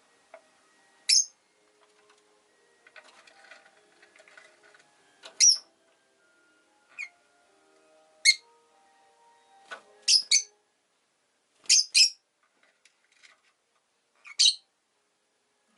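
Rosy-faced lovebird giving short, shrill chirps, about ten in all, some in quick pairs.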